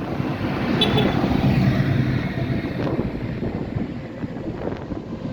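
Tractor engine driving past, loudest a second or two in and then fading as it moves away.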